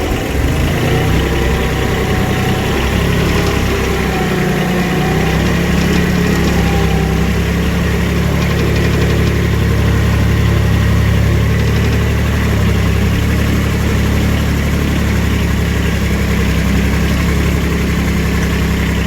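The diesel engine of a skid-steer mini dumper runs steadily on a little throttle as the machine crawls along in low gear.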